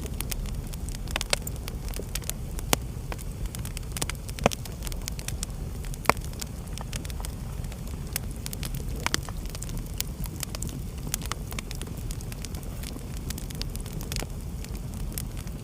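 Wood fire burning in a fireplace: a steady low rumble of the flames with irregular crackles and sharper pops, the loudest a few seconds apart in the first half.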